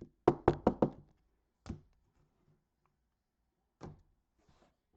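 Four sharp knocks in quick succession, then two single knocks about one and two seconds later.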